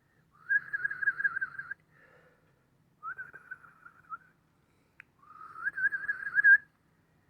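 Three warbling whistles, each starting with a short upward slide and then held with a fast wavering pitch. There is a brief click about five seconds in.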